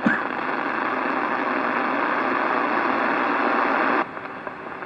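Hiss of static from a two-way radio, most likely a keyed-up transmission with no voice on it. It runs evenly for about four seconds, cuts off suddenly, and a fainter hiss remains.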